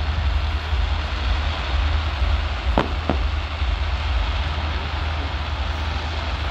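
Fireworks going off in the distance: two sharp bangs close together about three seconds in, over a steady low rumble and hiss.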